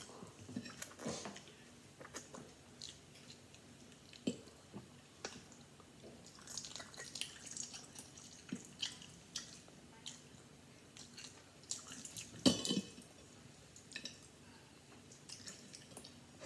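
Close-up chewing and wet mouth sounds of a person eating eggs with cheese, broken by many short sharp clicks. One louder burst comes about twelve seconds in.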